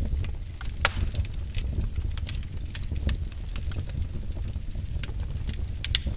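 Wood fire burning in a fireplace, crackling with many irregular sharp pops over a steady low rumble of the flames. The loudest pops come about a second in and near the end.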